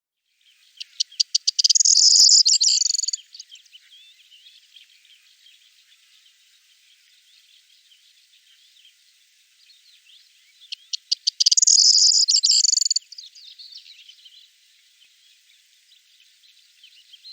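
Corn bunting singing twice, about ten seconds apart: each song is a run of stuttering ticks that speed up into a high, jangling rattle lasting a second or so. Faint chirps sound between the songs.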